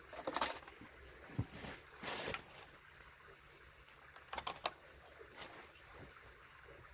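Footsteps crunching in snow, uneven and irregular, with a quick cluster of clicks about four and a half seconds in.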